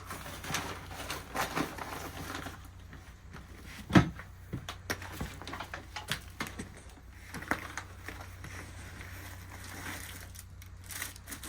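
Rummaging through boxes of stored belongings: scattered rustling, clicks and knocks as things are handled, with one sharp knock about four seconds in.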